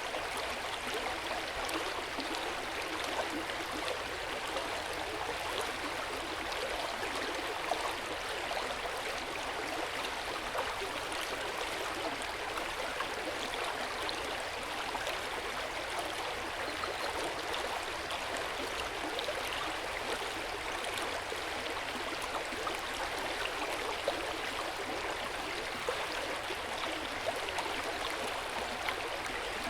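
Hot spring water flowing and splashing steadily into an open-air bath, a continuous even rush of water.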